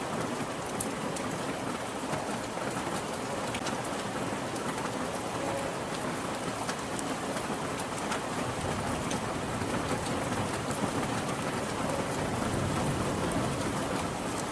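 Steady rain falling, an even hiss with scattered sharp drop ticks. A low rumble swells in the second half.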